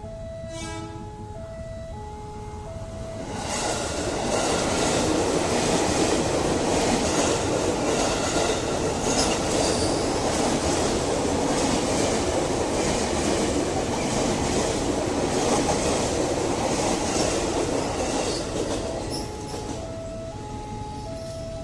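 Railway level-crossing warning bell sounding in a repeating alternating-tone pattern, then a train passing through the crossing. For about fifteen seconds its wheels clatter over the rail joints and drown out the bell. The bell is heard again near the end as the train clears.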